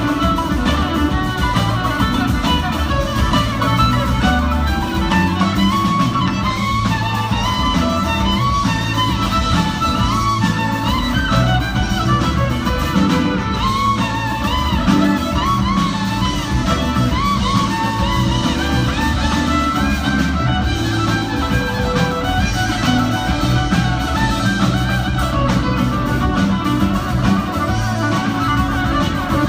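Live band music: a fiddle playing a wavering melodic line over guitar and a heavy bass-driven low end.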